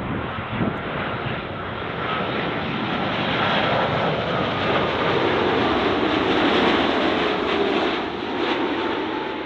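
Jet airliner on short final passing by, its engine noise a broad rush that swells to a peak about two-thirds of the way through and then eases off. Whining tones in it slide slowly down in pitch as it goes by.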